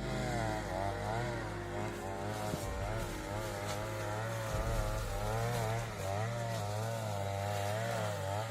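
A small petrol engine running, its pitch rising and falling over and over as it is revved and loaded, over a steady low hum.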